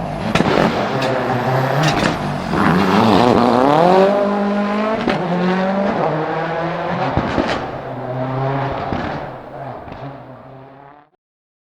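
World Rally Car engine revving hard, its pitch climbing steeply about three to four seconds in, with several sharp cracks along the way. The sound then fades away and cuts off just before the end.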